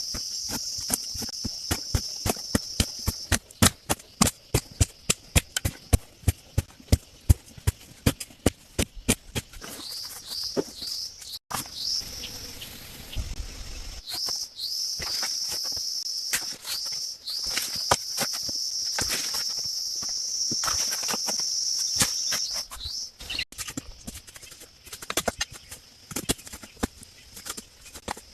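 A steady high insect trill, broken here and there by short rising chirps, with quick series of sharp knocks from hand-tool work, about two or three a second, thickest in the first third.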